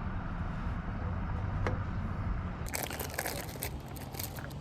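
A low steady rumble, then, from a little past halfway, about a second and a half of crinkling and crunching.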